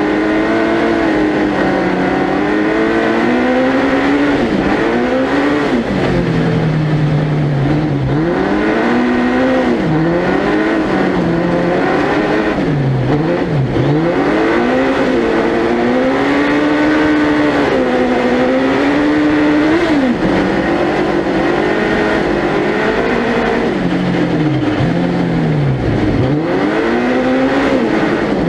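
Suzuki Hayabusa 1300cc motorcycle engine in a four-wheel-drive prototype ice-racing car, revving hard and continuously, its pitch climbing and dropping again and again every few seconds as the driver accelerates, shifts and lifts through the corners.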